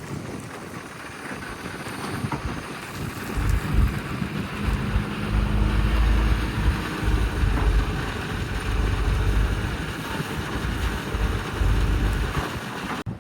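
Sumitomo excavator's diesel engine working under load while digging, growing louder a few seconds in.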